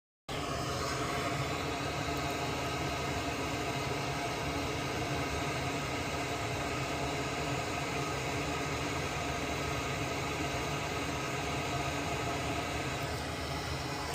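Steady machine hum with an even hiss, like a running fan, holding constant throughout after a brief dropout at the very start.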